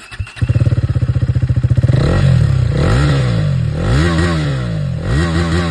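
KTM 390 Duke's single-cylinder engine starting about half a second in, idling briefly, then revved about four times, each rev rising and falling back toward idle.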